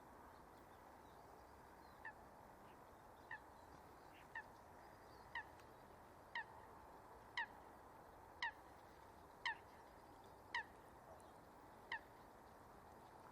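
A bird calling in a series of about ten short, falling notes, roughly one a second, growing louder toward the middle and then fading.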